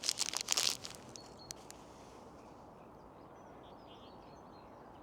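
Power-bar wrapper crinkling for about the first second, with a single click just after. Then a low steady background with faint bird chirps.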